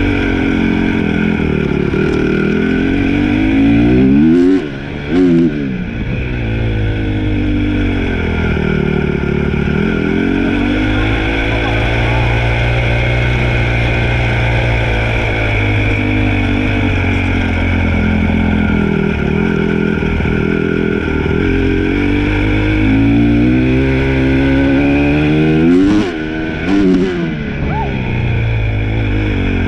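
Dirt bike engine running under way, revving up with the throttle twice. Each rise in pitch is followed by a sudden drop as the throttle is chopped or a gear is changed, about five seconds in and again near the end, with steadier running between.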